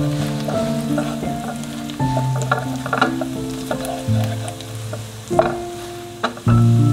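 Food sizzling in a pan while it is stirred, with a few sharp utensil clinks, under soft instrumental background music of slow held notes.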